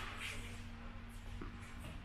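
Quiet tennis-court ambience during play: a few faint taps of ball or feet over a steady low hum.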